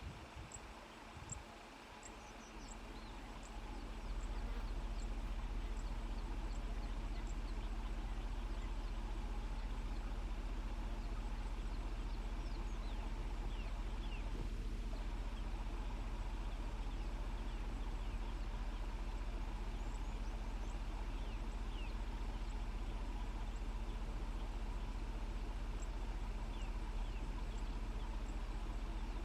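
Steady low hum of an idling vehicle engine, setting in about four seconds in, with faint chirps of small birds over it.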